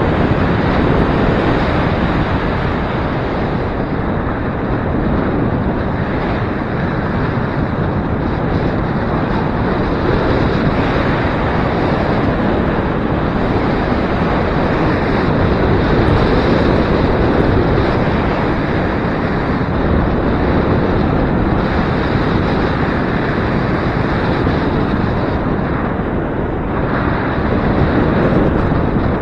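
Gusty wind blowing across the microphone: a steady, loud rushing noise with slight swells.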